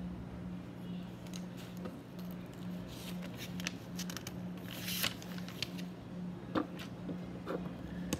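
Plastic LEGO bricks being handled and fitted together: scattered light clicks, with a brief rustle about five seconds in.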